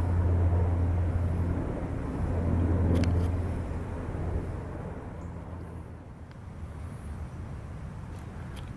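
Low, steady engine rumble, loud for about the first three seconds, then fading away.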